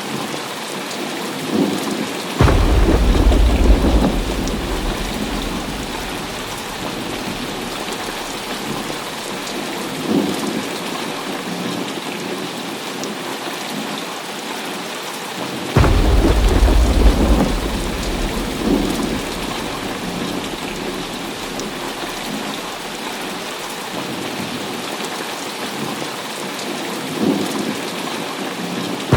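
Heavy rain falling steadily, with two sudden claps of thunder, about two seconds in and about sixteen seconds in, each breaking into a deep rumble that lasts a few seconds. Fainter rolls of thunder come in between.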